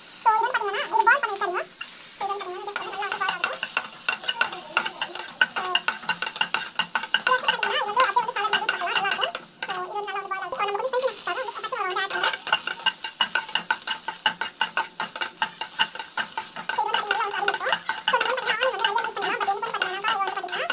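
Diced vegetables sizzling in hot oil in a dark frying pan, with a spatula stirring and scraping them around the pan in quick clicks and scrapes.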